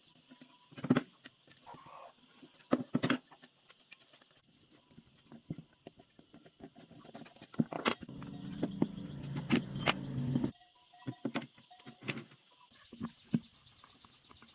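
Scattered metallic clinks and knocks, like tools and metal parts being handled, with a low rumbling scrape for a couple of seconds past the middle.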